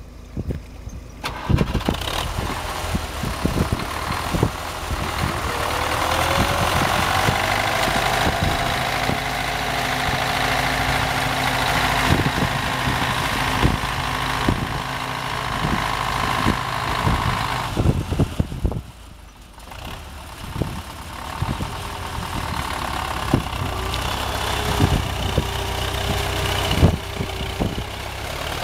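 Belarus tractor's diesel engine running steadily while working a flooded rice paddy, with many short knocks and clanks. It rises in pitch about six seconds in, drops away for a moment about two-thirds through, then picks up again.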